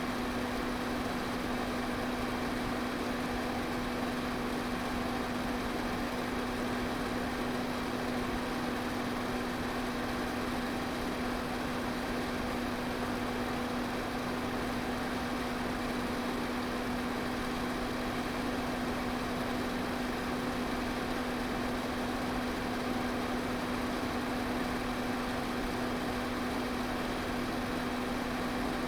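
Electric fan running at a steady speed: an even rushing of air with a constant low motor hum.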